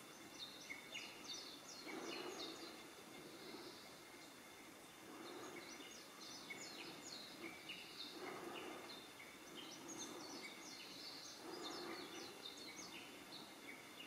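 Faint birdsong: small birds chirping in quick runs of short high notes. A lower, hazy sound comes and goes about every three seconds.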